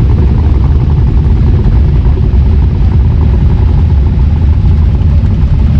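Car engine idling loudly and steadily close by, a deep rumble with a fast, even pulse.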